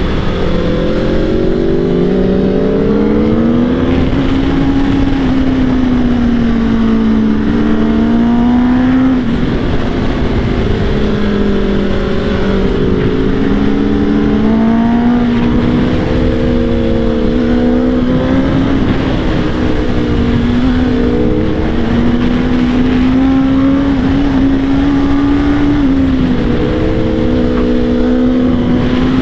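Motorcycle engine running under way, its note rising and falling gently with the throttle and dipping briefly a few times, with wind rushing over the helmet microphone.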